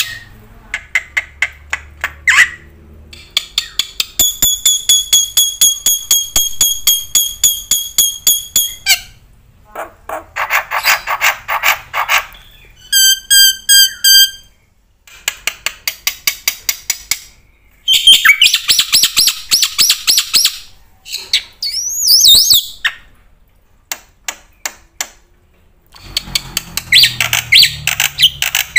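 Bird calls: a series of different repeated chirps, trills and whistled notes, each kind running for a few seconds and breaking off sharply before the next begins.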